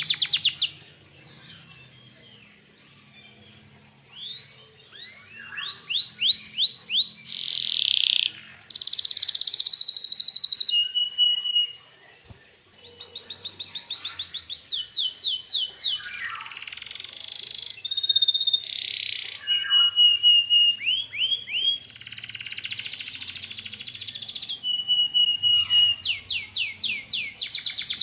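Domestic canary singing a long, varied song of rapid trills, buzzy rolls and held single whistled notes. The song pauses for a few seconds near the start and breaks briefly around the middle.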